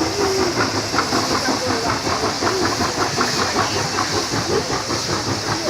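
Train passing on the track: rapid, even clatter of wheels over the rails with a steady hiss over it.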